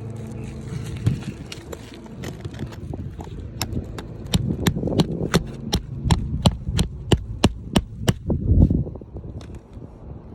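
A tool striking repeatedly while working roofing nails loose from under asphalt shingles: a run of sharp taps, about three a second, from about three and a half to eight seconds in.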